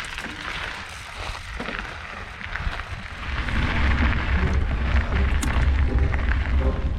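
Wind buffeting the microphone with rough, grainy noise from a mountain bike on the move; the rumble grows louder about three seconds in.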